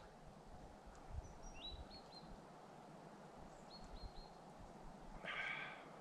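Faint outdoor ambience with small birds giving short, high chirps in two quick groups. A brief noisy sound comes about five seconds in.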